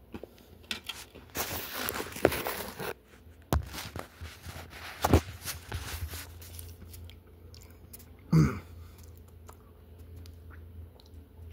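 Dunkaroos vanilla cookies with icing being bitten and chewed close to a phone microphone: scattered crunches and clicks, with a dense stretch of crackly noise about a second and a half in. About eight seconds in comes a short hum of the voice.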